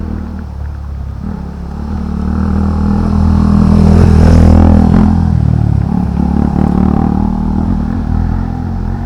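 Motor vehicle engine running steadily, growing louder to a peak about four to five seconds in, then easing off.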